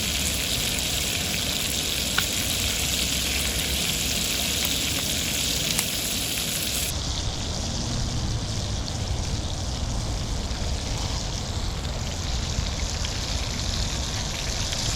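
Frog legs frying in butter in a pan, a steady sizzle with occasional small pops; the high hiss softens about seven seconds in.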